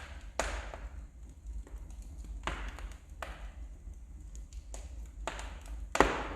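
Wood fire burning in a fireplace, crackling with irregular sharp pops and small snaps; the loudest pop comes near the end. A steady low hum runs underneath.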